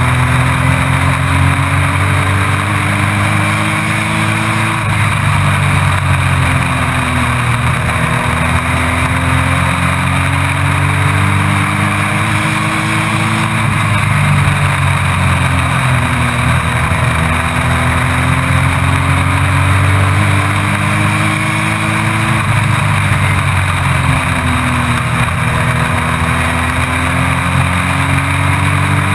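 Race truck's engine heard onboard at race pace. Its pitch climbs slowly for several seconds, then dips sharply before climbing again, about every nine seconds, as the truck accelerates out of the turns and lifts for the next ones.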